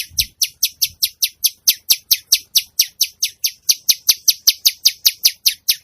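Songbird giving a fast, even run of short, harsh high chirps, about five a second: a 'kasaran' rough fill song.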